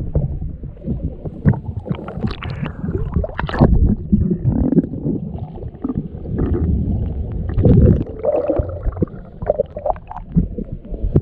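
Water sloshing and splashing close to the microphone, a muffled, uneven low rumble with scattered knocks and splashes.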